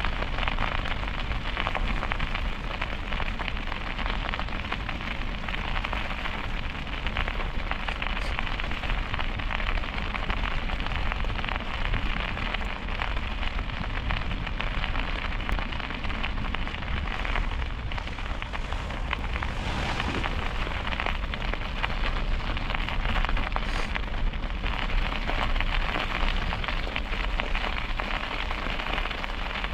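Steady rushing noise of a bicycle in motion: wind over the microphone and tyres on a wet, slushy road, with brief louder gusts now and then.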